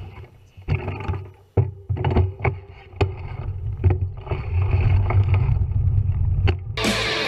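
Muffled knocks, clicks and a low rumble of a bicycle being handled and set off again, picked up through a GoPro's waterproof housing. Music starts suddenly near the end.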